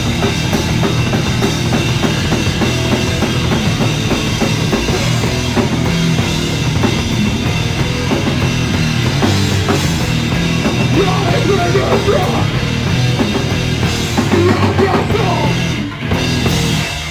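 A loud live rock band plays with a driving drum kit, bass and distorted guitars, recorded through a phone's microphone. The music drops off near the end as the last song finishes.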